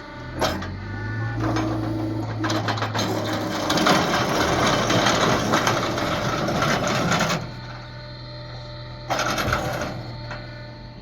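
A motor running steadily, with a loud noisy stretch in the middle lasting about four seconds and shorter loud bursts before and after it.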